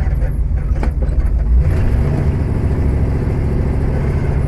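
1976 Ford Mustang's engine running steadily while driving, its note changing about one and a half seconds in.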